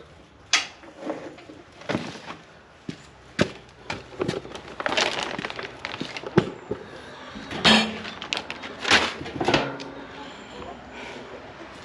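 Irregular clatter of knocks and clinks, about a dozen sharp strikes, as of hard objects being handled and knocked together.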